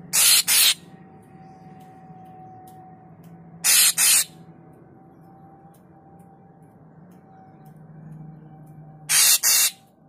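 Caged deot (murai papua) giving harsh, hissing calls three times, each call two short rasps in quick succession.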